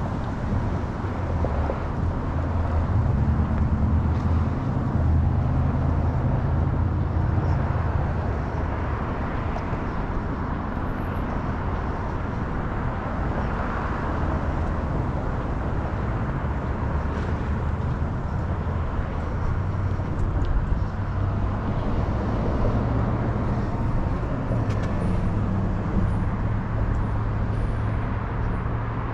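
A car driving along: steady engine hum with tyre and road noise. The engine note shifts in pitch a few times as the speed changes.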